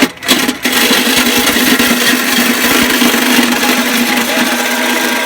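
Electric jigsaw cutting into a car's exhaust pipe to chop off the muffler. The saw starts about half a second in and then runs steadily at a constant motor pitch.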